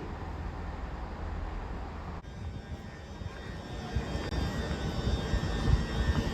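Train running through the station: a steady low rumble that changes character abruptly about two seconds in, then grows louder, with a faint steady high whine above it.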